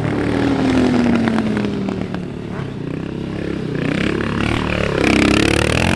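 Dirt bike engine running, its pitch falling steadily over the first two seconds, then dipping and rising again near the end.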